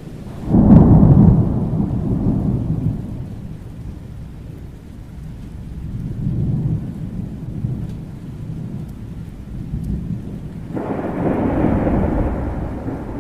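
Thunderstorm: a sudden loud thunderclap about half a second in that rolls away over a few seconds, a softer swell of rumbling midway, and another roll of thunder starting abruptly near the end, over steady rain.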